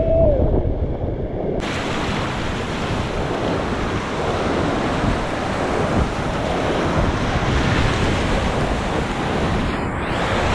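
Rushing whitewater of a river rapid, a steady loud hiss, with wind buffeting the microphone. The sound turns suddenly brighter and fuller about a second and a half in.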